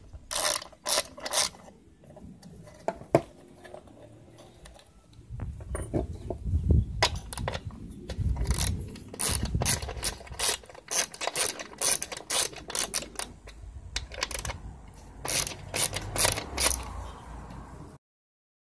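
Ratchet wrench with a 10 mm socket clicking in quick runs as the nuts holding a welder's handle are undone, with sharp metal clicks and low handling knocks. The sound cuts off abruptly near the end.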